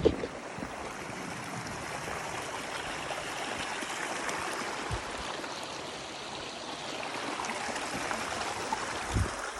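Steady rushing of a mountain stream, an even wash of flowing water, with a couple of low thumps near the end.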